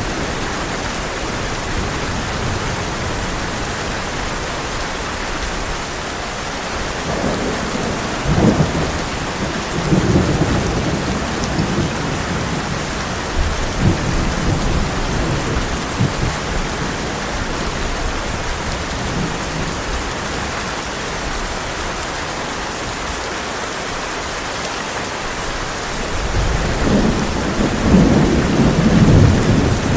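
Heavy rain falling steadily on a tin roof, with thunder rumbling low about eight seconds in and again around ten and fourteen seconds, and a longer, louder roll of thunder near the end.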